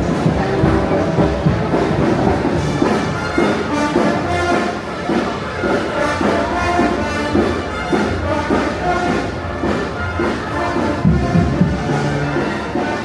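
A live street brass band playing, with several horns sounding together in a lively rhythm.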